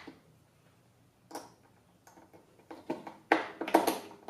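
Hard plastic clicks and knocks as the handle is fitted onto a shop vac's power head: a single click, then a quick cluster of louder knocks and rattles near the end.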